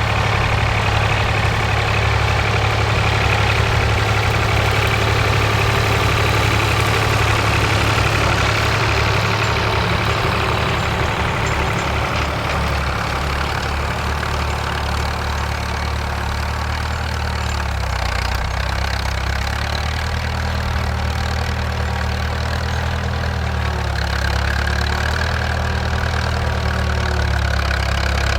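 Vintage tractor engine running steadily. The hiss above it fades partway through, and about two-thirds of the way in the engine note shifts and wavers.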